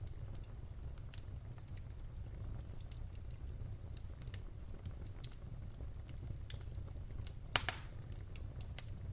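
Wood fire in a fireplace crackling: scattered small pops and ticks over a low steady rumble of the flames, with one louder snap about seven and a half seconds in.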